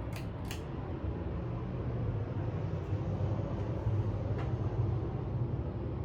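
Hampton Bay Carousel ceiling fan running on low speed, a steady low motor hum with the rush of moving air, getting a little louder partway through. Two sharp clicks right at the start, from the fan's pull chain.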